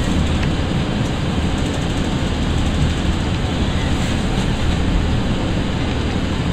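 Interior running noise of a Class 165 diesel multiple unit: a steady low rumble of the wheels on the track and the train in motion, heard from inside the carriage.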